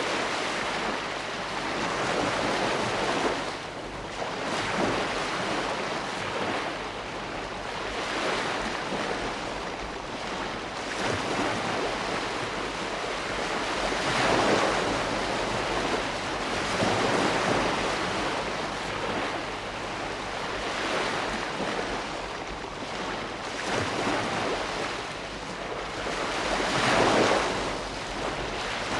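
Ocean waves breaking and washing on a shore, a steady rush of surf that swells and eases every few seconds as each wave comes in.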